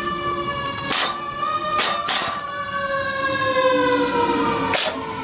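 Cordless drill driving a transmission jack down, a steady motor whine that slowly falls in pitch, with a few sharp metallic clicks.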